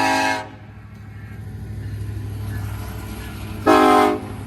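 Union Pacific freight locomotive's air horn sounding two short blasts, one ending about half a second in and another near the end, over the steady low rumble of the passing train.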